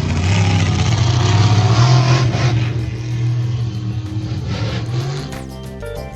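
Monster truck engine running loud under throttle, pitch rising slightly up to about two seconds in. It falls away near the end as music comes in.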